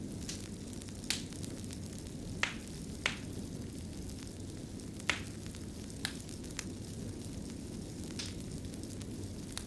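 Wood fire burning in a fireplace: a steady low rush of flame with sharp crackles and pops every second or so.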